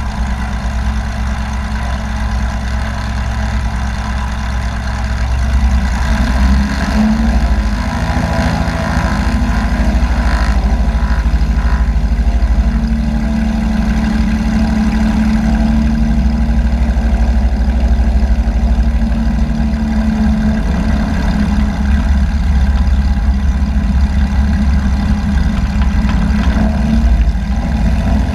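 Light aircraft's piston engine and propeller running steadily with a low, even drone. The engine gets louder about six seconds in and holds at the higher level.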